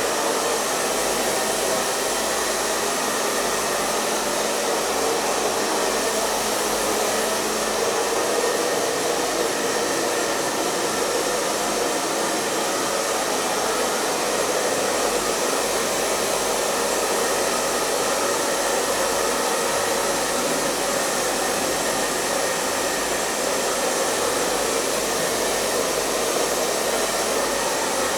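Hair dryer running continuously, a steady rushing of blown air with a faint constant motor hum beneath it.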